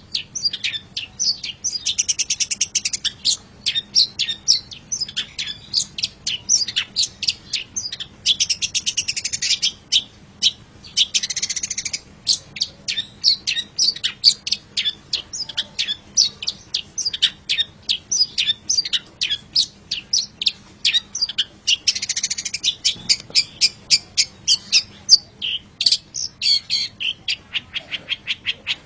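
Long-tailed shrike (cendet) singing a fast, continuous chattering song of short sharp high notes, several a second, broken now and then by brief rapid trills.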